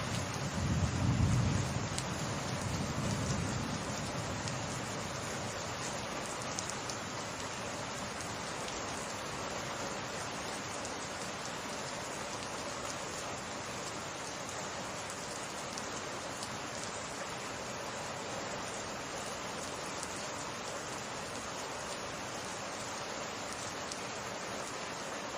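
Steady rain pouring down in a summer rainstorm. A low rumble of thunder fades out over the first few seconds.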